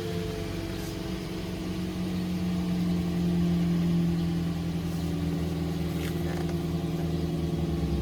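Toyota Vios Limo gen 3 four-cylinder petrol engine idling steadily, running with engine flush added to the old oil so it circulates before the drain.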